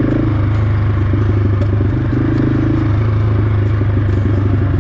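Husqvarna 701 single-cylinder motorcycle engine running steadily under load as the bike is ridden off-road, with occasional light clicks and clatter.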